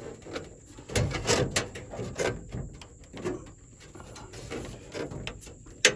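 Scattered knocks and clicks of hand work on a pickup truck's door, with parts and tools being handled, and one sharp click near the end.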